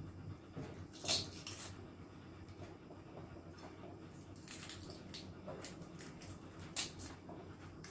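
A person eating at the table: chewing, with a few sharp clicks and clinks of cutlery and dishes, about a second in, around five seconds and near seven seconds.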